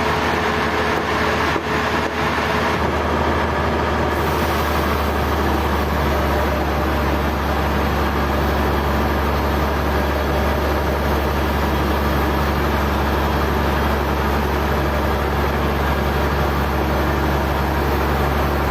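Heavy machinery running steadily: a constant low hum under an even mechanical noise, with no break or change in speed.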